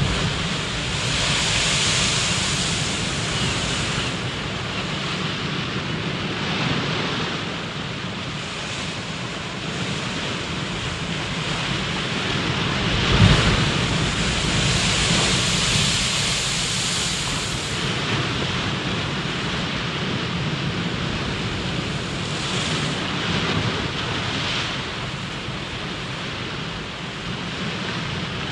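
Water rushing in a continuous hiss that swells and eases every few seconds, with one low thump about thirteen seconds in.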